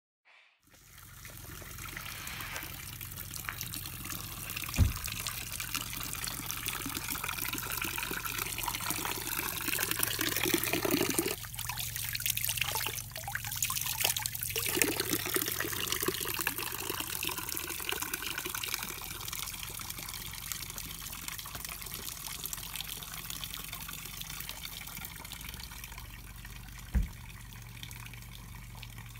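Running water trickling and splashing steadily. There are two brief low thumps, one about five seconds in and one near the end.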